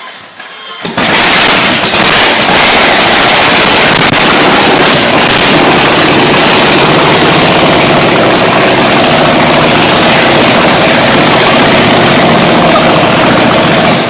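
Large engine bursting into loud running about a second in, a dense rapid rattle of firing that holds steady at near-overloading volume, then falls away at the end.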